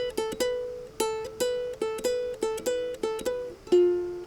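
Ukulele picking single notes, a quick repeating figure of alternating notes copied from the song's piano part over the A minor verse. Near the end it drops to a few lower notes left to ring longer.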